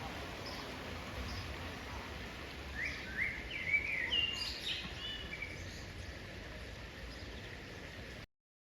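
Steady outdoor ambience with a faint hiss, and a bird giving a quick run of short chirps about three to five seconds in. The sound cuts off abruptly near the end.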